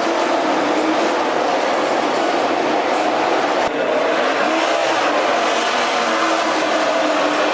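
MotoGP racing motorcycle engines running hard at high revs, a continuous loud rush with engine pitch rising and falling. The sound dips briefly about three and a half seconds in.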